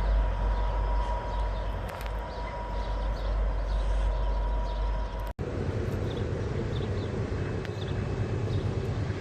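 Norfolk Southern freight train passing: a steady deep rumble of diesel locomotives and rolling cars, with a steady high tone over it in the first half. About five seconds in, the sound cuts out for an instant and resumes as a different rumble.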